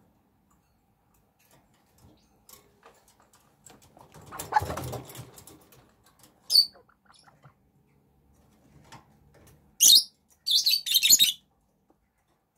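Young chickens peeping: a single high chirp about six seconds in, then a loud run of shrill peeps near the end, after a soft rustle about four to five seconds in.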